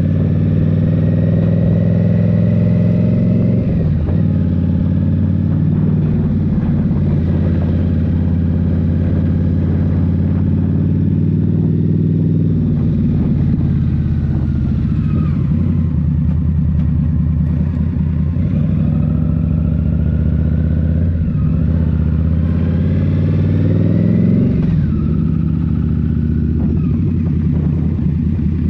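Indian Scout Rogue's 69 cu-in V-twin with a Rinehart slip-on exhaust, running under way on the road. The engine pitch rises under throttle and drops back several times, the longest rise coming about three quarters of the way through.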